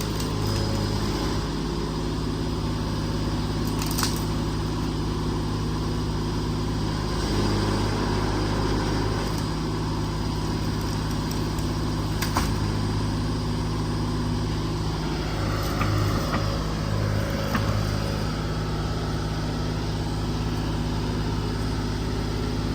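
Excavator's diesel engine running steadily, with a few sharp knocks from the machine at work.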